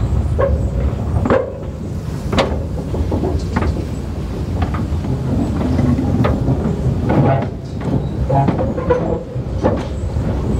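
Narrow-gauge train rolling along: a steady low rumble with irregular clacks and knocks from the wheels on the track, and a few short squeaks about two-thirds of the way in.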